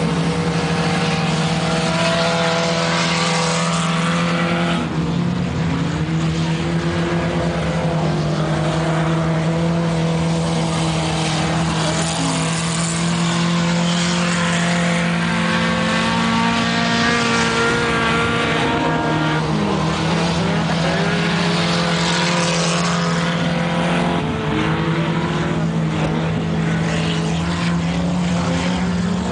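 Several ice-racing car engines running hard, their notes rising and falling as the cars accelerate, shift and back off, over a steady engine drone.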